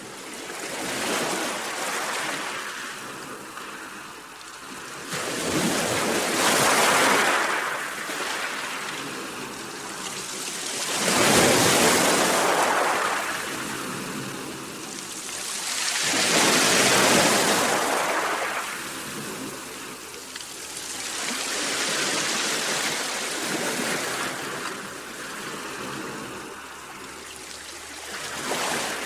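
Sea waves breaking and washing in, in repeated surges that swell and fall away about every five seconds. The loudest surges come near the middle.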